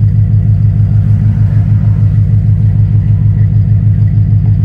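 Dodge Charger's 5.7-litre Hemi V8 running steadily while the car is driven, a deep, evenly pulsing exhaust drone.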